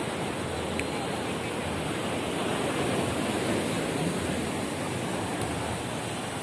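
Ocean surf washing onto a sandy beach, heard as a steady, even rush.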